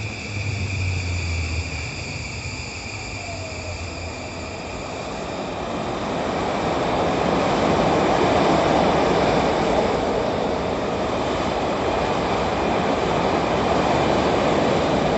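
Electric commuter train running into the station, its rumble of wheels and running gear swelling from about six seconds in and staying loud.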